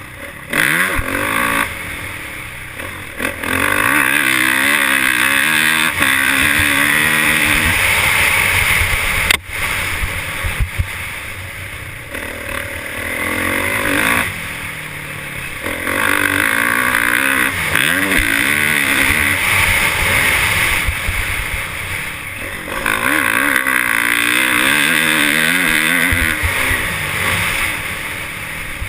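Motocross dirt bikes racing, engines revving up and down as they go through the gears and over the track. The bikes come loudest in three spells, and there is a single sharp crack about nine seconds in.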